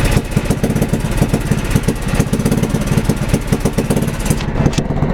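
Engine of a 1995 Craftsman RE2000 Ride and Mulch lawn tractor running steadily with a rapid, even exhaust pulse; the owner says it could use an exhaust. The higher, hissing part of the sound drops away about four and a half seconds in.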